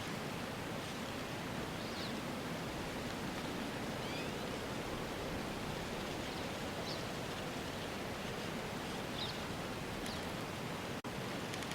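Steady rushing outdoor ambience noise, with faint short high chirps a few times and a split-second cut in the sound near the end.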